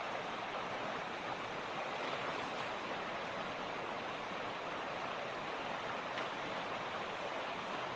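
Mountain creek rushing steadily: a constant, even water noise with no changes.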